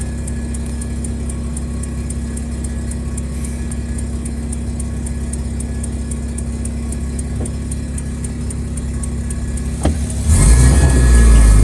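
Mazda RX-7's rotary engine idling steadily, heard from inside the car. About ten seconds in it suddenly revs hard and loud as the clutch is dumped for a launch.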